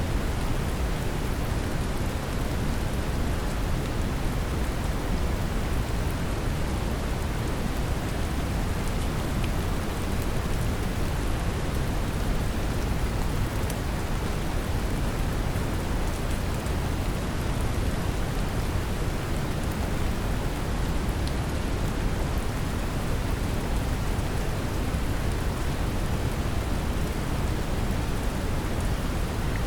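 Steady brown noise, a deep even rumble of hiss, mixed with a wash of gentle rain.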